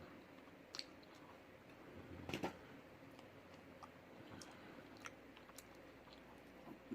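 Faint mouth sounds of a person chewing food, with scattered small clicks and a louder cluster of clicks a little over two seconds in.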